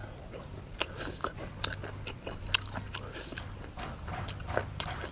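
A person chewing a mouthful of blanched beef shank dipped in chili sauce close to the microphone: irregular wet smacks and clicks of the mouth.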